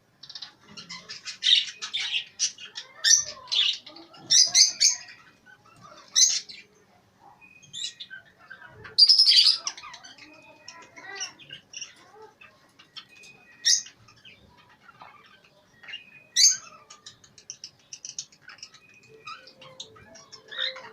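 A crowd of small cage birds chirping and squawking together, with loud, sharp calls breaking out every few seconds over the constant twittering.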